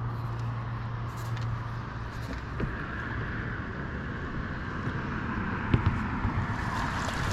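Boat motor running steadily at low speed, with a low hum and a hiss of water, and a couple of light knocks about six seconds in.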